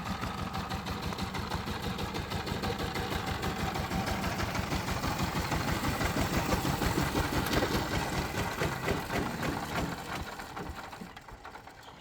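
Single-cylinder diesel engine of a power tiller running with a rapid, even chugging beat. It dies away over the last two seconds.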